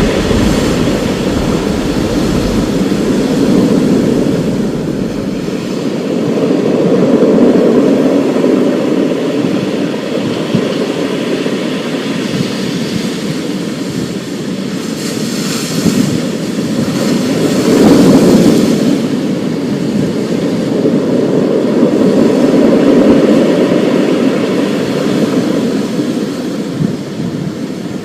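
Thunderstorm: a continuous low rumble of rolling thunder that swells and fades every few seconds over a steady hiss of rain, with a sharper, brighter crack a little past halfway.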